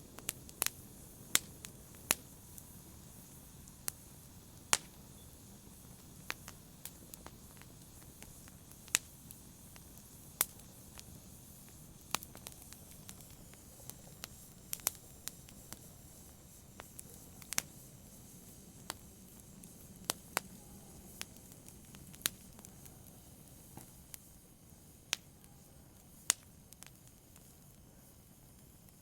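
Wood fire crackling in a fireplace: a soft steady hiss with sharp pops and snaps at irregular intervals, about one or two a second.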